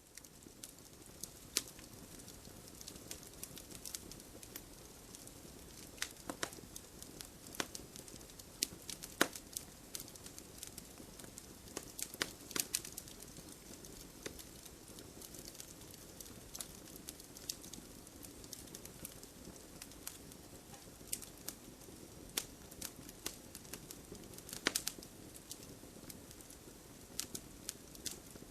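Wood fire crackling: irregular sharp pops and snaps from burning logs over a steady low rustle of flames, with a few louder pops scattered through.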